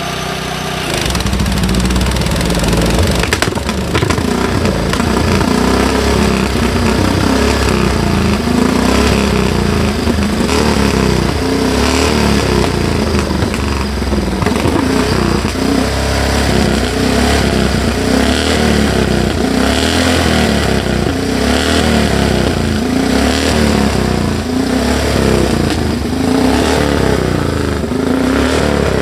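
Speedway motorcycle's single-cylinder engine running loud, its throttle blipped up and down every second or two.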